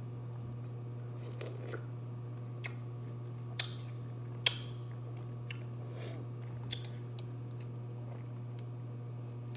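A person chewing food close to the microphone, with several short, sharp crunches or clicks, the loudest about four and a half seconds in. A steady low hum runs underneath.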